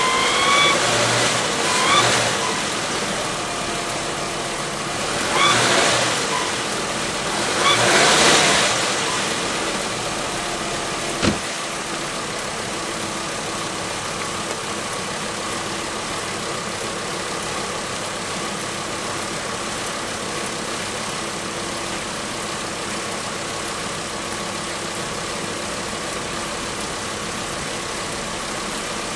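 VW Passat V5 wagon's VR5 engine running with a steady hum. In the first nine seconds three louder whooshes rise and fall, and a single sharp click comes about eleven seconds in.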